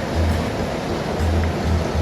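Mountain stream rushing over rocks: a steady rush of water, with an uneven, pulsing low rumble underneath.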